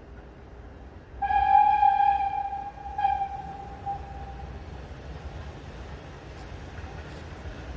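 Steam locomotive whistle sounding a long blast and then a short one on a single pitch, over the low rumble of a train running.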